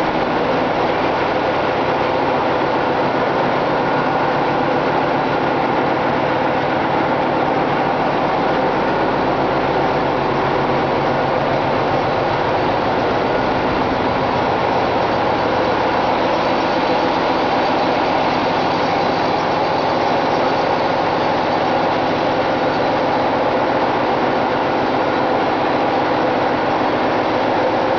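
Ship's engine-room machinery running: a loud, steady mechanical din with a constant hum of several tones, unchanging throughout.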